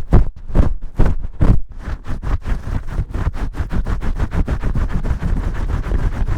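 Vigorous ASMR shampoo scrubbing rubbed close against the microphone. A few slower, separate strokes give way about two seconds in to fast, continuous scrubbing at several strokes a second.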